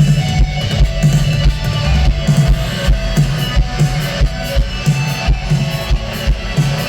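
Rock band playing without vocals: a drum kit keeping a steady beat, about two kick-drum hits a second, under guitar.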